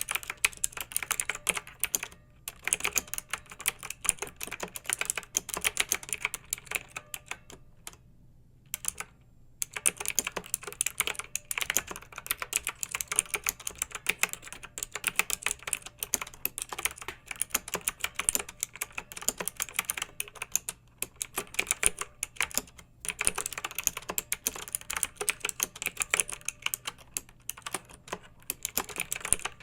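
Clicky mechanical keyboard being typed on in quick, uneven runs of keystrokes, with short pauses between bursts and a longer break of about a second and a half a little after the first quarter.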